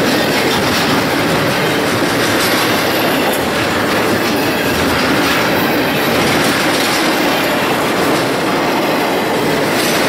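Loaded double-stack intermodal well cars rolling past: a loud, steady noise of steel wheels on the rails.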